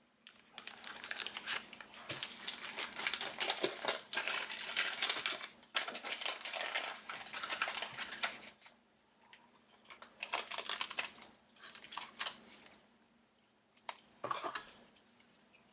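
Trading card packs being handled: foil wrappers crinkling and rustling, with cards clicking and sliding against each other. The handling runs almost continuously for about eight seconds, then comes in a few shorter bursts.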